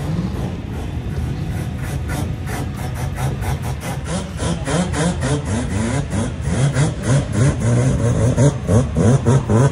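Car engine revving hard again and again, its pitch rising in repeated sweeps and growing louder about halfway through.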